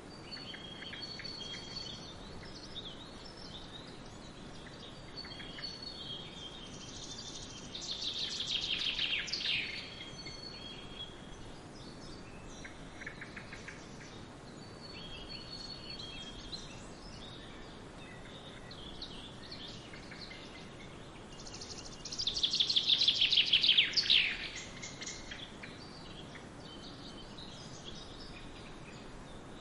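Songbirds singing in woodland: scattered high chirps and calls, with two louder songs that run down in pitch, about eight seconds in and again about twenty-two seconds in, over a steady background rush.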